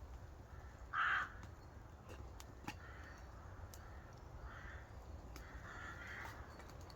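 Crow cawing: one loud harsh caw about a second in, then several fainter caws through the rest.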